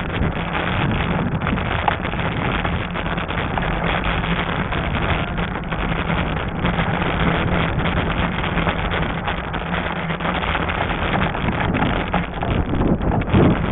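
Wind buffeting the microphone during a fat-tire e-bike ride on a trail, with tyre and riding noise under it. A steady low hum runs through most of it and fades near the end.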